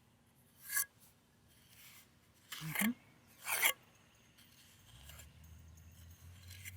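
Three short rasping scrapes of a tool working wet concrete mix, the last and loudest about three and a half seconds in. A faint low hum comes in about five seconds in.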